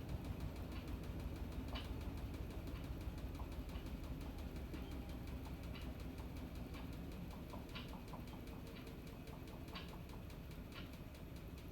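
Panasonic NA-FA100H9 top-loading washing machine running, a steady low rumble with scattered light ticks about once a second, slowly getting quieter.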